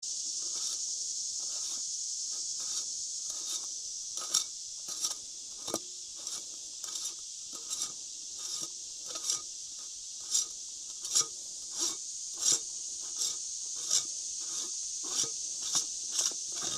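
Irregular metal clicks and scraping, one every half second to a second, from hand tools working loose the oil filter assembly on a Massey Ferguson 50 tractor. A steady high chirring of insects runs underneath.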